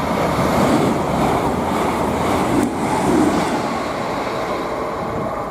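Grand Central Class 221 Voyager diesel multiple unit passing at speed, a rushing of wheels and air that swells in the first second and then slowly eases off.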